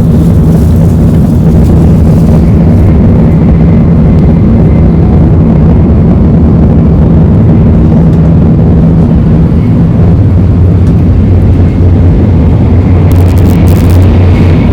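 Tokaido Shinkansen train running at speed, heard from inside a passenger car: a loud steady rumble with a low hum whose pitch drops lower about ten seconds in. A brief crackle near the end.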